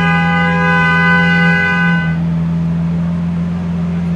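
Lamborghini Aventador Roadster's V12 engine idling steadily through custom aftermarket exhausts. A steady horn-like tone sounds over it for about two seconds from the start, then stops.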